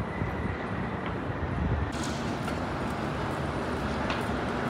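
Steady low rumble of vehicle noise, with a brighter hiss joining about two seconds in.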